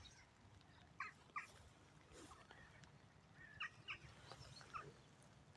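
Faint bird calls: short chirps, often in pairs, repeating several times over a low background rumble.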